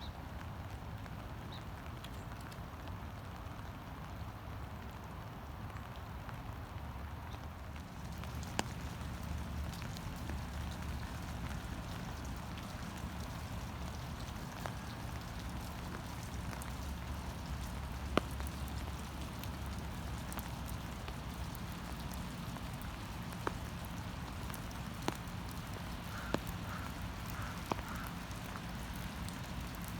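Heavy rain falling steadily, with a low rumble underneath and a few scattered sharp taps; it gets a little louder about eight seconds in.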